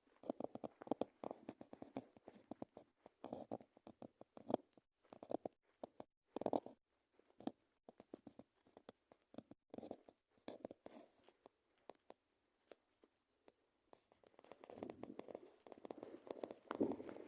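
Irregular crackling and rustling, made up of many short scratches and crunches. There is a quiet stretch about two-thirds of the way through, and the rustling grows denser near the end.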